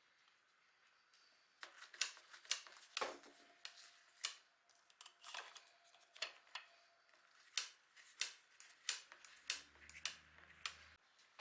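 Irregular sharp clicks and metallic taps of tools and parts being handled during work on a motorcycle engine's cylinder head, starting about a second and a half in. A brief low hum comes near the end.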